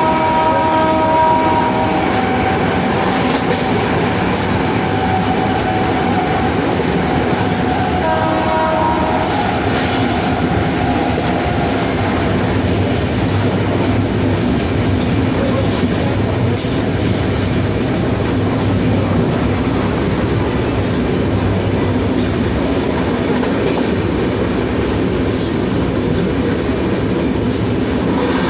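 WAP-7 electric locomotive on the move: a steady rumble of wheels on rail with a few scattered clicks. A whine of several held tones from its traction motors is heard at the start and again about eight seconds in, dying away a few seconds later.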